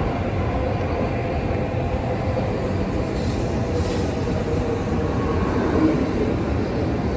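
N700A Shinkansen cars rolling past alongside the platform: a steady rumble of wheels and running gear with a faint even hum.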